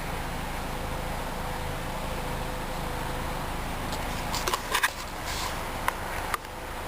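2003 Volkswagen Jetta's 2.0-litre four-cylinder engine idling steadily. A few sharp clicks come about four to five seconds in, with a single click or knock near the end.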